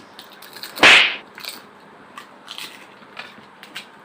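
A crisp fuchka (panipuri) shell cracking with one loud, sharp crack about a second in, followed by faint crunchy clicks.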